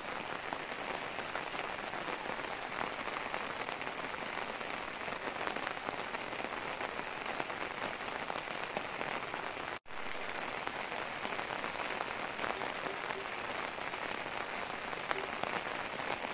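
Steady rain falling, an even hiss thick with fine drop ticks; it cuts out for an instant a little past halfway.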